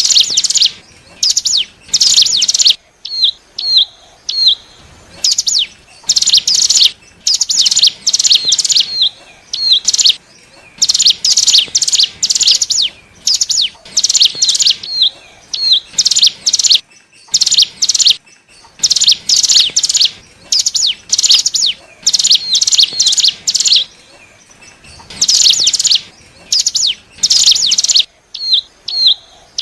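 Ciblek gunung (cigun), a small prinia, singing loud, fast, high chattering phrases again and again with short pauses between them. Short hooked single chips come in several of the gaps. This is the lure call used to draw in wild cigun.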